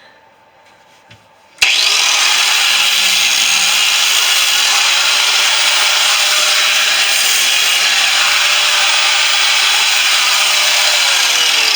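Angle grinder switched on about a second and a half in, cutting into the steel shell of a refrigerator compressor with a loud, steady grinding hiss. Near the end its pitch starts to fall as it winds down.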